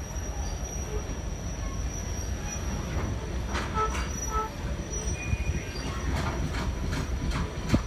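Passenger train rolling slowly on the rails, heard from aboard: a steady low rumble with short faint wheel squeals, and from about three seconds in a series of sharp clicks from the wheels on the track.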